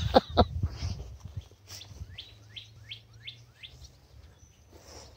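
A songbird singing a run of about six quick, down-slurred whistled notes, about two or three a second, with a few sharp knocks near the start.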